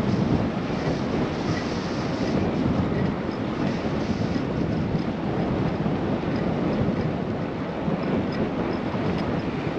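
Steady rushing wind and ride noise while cycling, heavy at the low end where the wind buffets the microphone.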